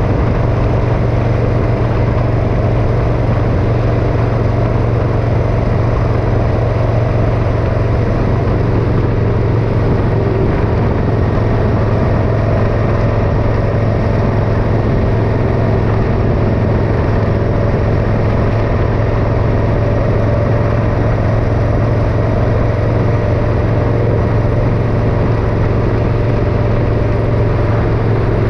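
Motorcycle engine running at a steady cruise, with a constant low drone and no change in speed.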